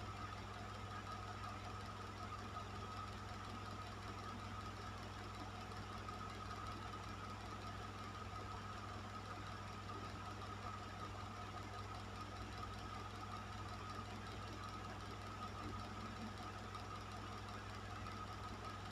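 Electric fan running steadily: a low motor hum with a steady higher whine above it and a soft hiss of moving air.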